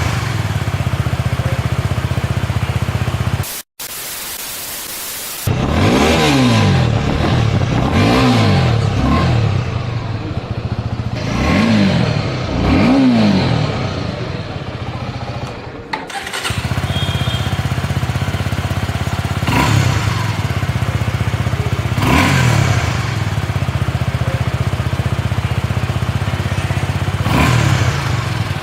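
Suzuki Gixxer SF250's single-cylinder engine through its stock exhaust, idling, then revved several times in quick blips that climb in pitch and fall back, then idling again with a few short throttle blips. The sound breaks off abruptly twice where one clip is cut to the next.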